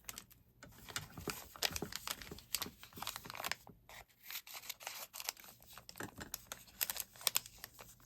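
Small plastic wrapper crinkling and tearing as a miniature toy product is unwrapped by hand, with many irregular sharp crackles.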